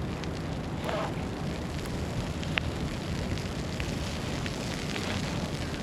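Snowstorm street ambience: a steady low rumble under a crackly hiss, with a few sharp ticks and a faint distant voice about a second in.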